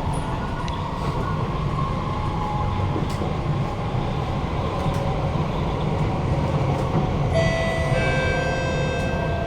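Kawasaki–CRRC Qingdao Sifang C151A metro train running on the line, heard from inside the car: a steady rumble of wheels and running gear. About seven seconds in, a set of high, stepping electric motor tones comes in over the rumble: the echoey traction motor sound of this car.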